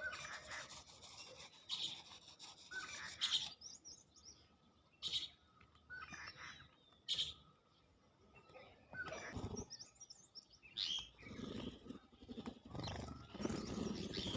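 Birds chirping and calling in short, separate bursts, mixed with scratchy, rustling noises.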